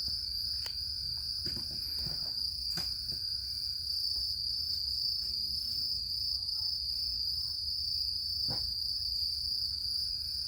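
Insects singing in a steady, unbroken high-pitched chorus over a low rumble.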